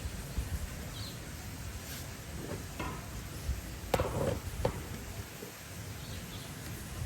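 Steady outdoor wind noise, the onset of a strong windstorm, with a few sharp knocks about four seconds in and faint bird chirps.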